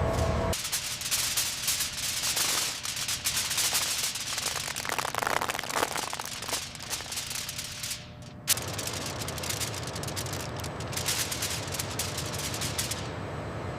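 Scratchy rubbing on a surface in quick, irregular strokes, stopping briefly about eight seconds in and starting again.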